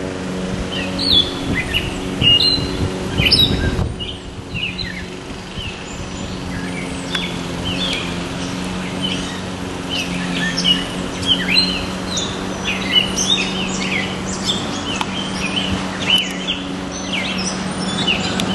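Wild songbirds chirping and singing, many short quick calls overlapping, over a steady low hum; low rumbling, like wind on the microphone, in the first few seconds.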